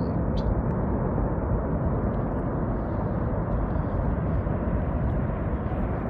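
Avalanche powder-cloud blast, a dense rush of snow-laden wind hitting the microphone. The noise is steady and heavy, with no let-up.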